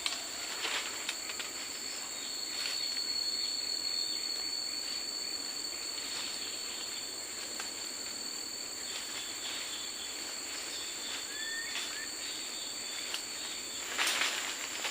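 Forest ambience of insects buzzing steadily at a high pitch. A second, lower-pitched insect joins for about three seconds early on. There is a brief bird chirp about eleven seconds in and a short rustle near the end.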